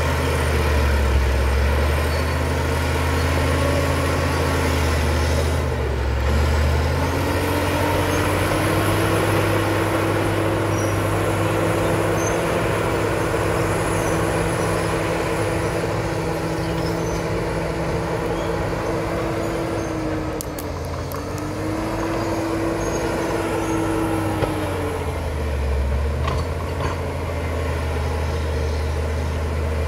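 Caterpillar D7 crawler dozer's diesel engine running steadily. It rises in pitch under load about a quarter of the way in, dips briefly, then settles back down near the end.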